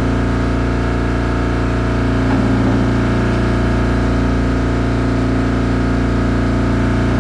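Boat's engine running steadily at a constant speed.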